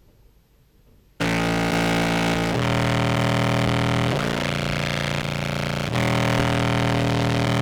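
Contrabass clarinet played through fuzz and compressor pedals: about a second in, four long, heavily distorted notes, each held more than a second, as a level check of the compressor settings.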